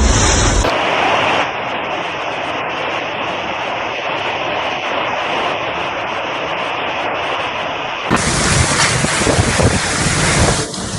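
Storm wind in amateur footage: a steady rushing hiss, then, after an abrupt cut about eight seconds in, strong gusts buffeting the microphone with a low rumble.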